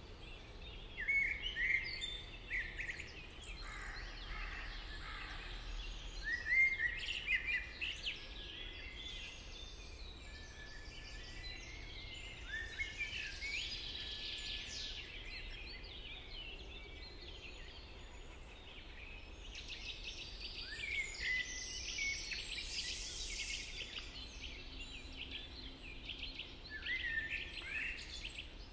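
Several songbirds singing at once in a chorus of short whistled and trilled phrases, over a faint low rumble of ambient noise.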